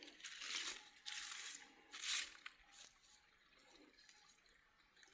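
Three short scraping or crunching noises, each about half a second long, in the first two and a half seconds, then only faint background.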